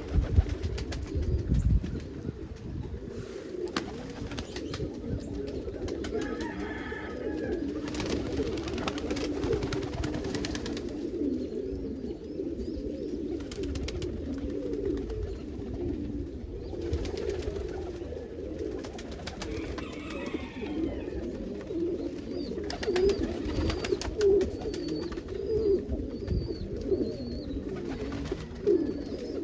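A loft of pigeons cooing continuously, many birds calling over one another in a dense, low warble.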